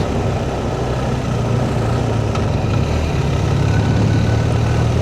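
Motorcycle engine running steadily under way, a low even hum with wind and road noise over it.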